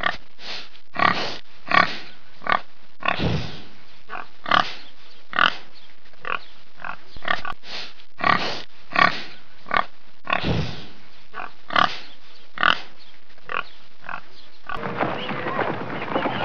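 Wild boar grunting repeatedly, short grunts about once a second with a couple of longer, breathier ones among them. About two seconds before the end the grunting stops and gives way to a steady outdoor background.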